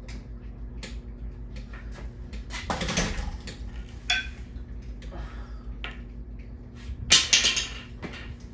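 Broken ceiling fan motor humming steadily while loose metal parts rattle and click, with a loud metallic clatter about three seconds in and a louder crash about seven seconds in.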